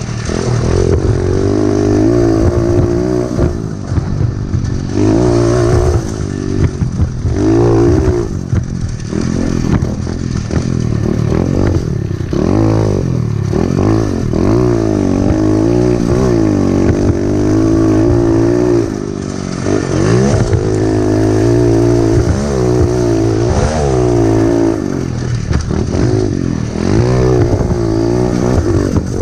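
Pit bike engine being ridden hard, revving up and dropping back again and again as the rider works the throttle and gears.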